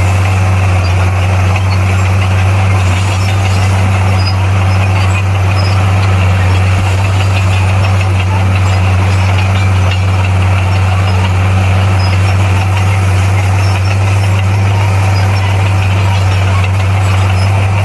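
A bulldozer's diesel engine running at a steady, unchanging speed: a constant low drone.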